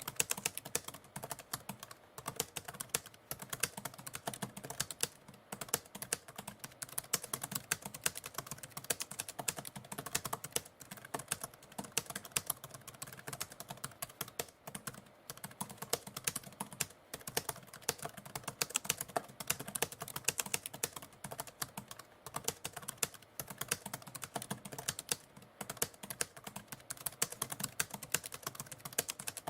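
Typewriter keys clacking in a steady, unbroken stream of rapid keystrokes, several a second.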